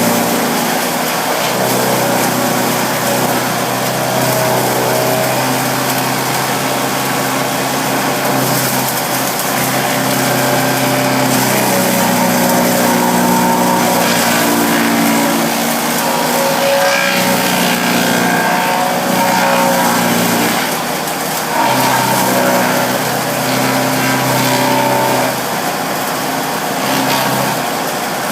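Bearcat wood chipper running loud and continuously, its engine note wavering up and down in pitch several times over a steady rushing noise.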